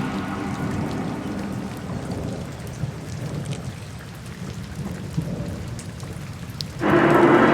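Rain falling steadily, with scattered drop ticks and a low rumble of thunder. A music bed fades out at the start and swells back in near the end.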